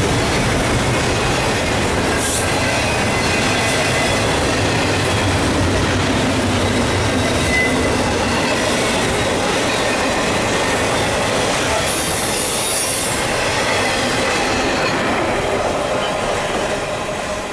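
Double-stack intermodal freight train's well cars rolling past, a steady loud rumble and rattle of steel wheels on rail, with a brief high squeal about twelve seconds in. The noise begins to fade near the end as the last car goes by.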